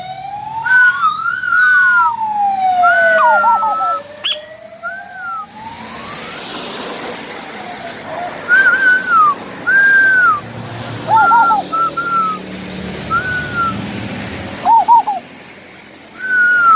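Asian koel calling: short whistled notes, each rising and falling, repeated every second or so. Over the first four seconds a siren-like wail rises and falls once, and a rush of noise comes around the middle.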